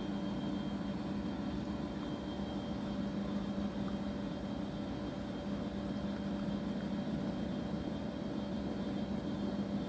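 Washing machine running with a steady, even hum, holding a constant low tone and no clear starts, stops or knocks.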